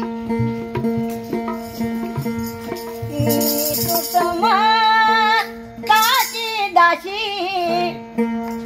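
One-string ektari plucked in a steady rhythm, sounding an unchanging drone. About three seconds in, a woman's voice joins with long sung notes that waver with vibrato, breaking off shortly before the end.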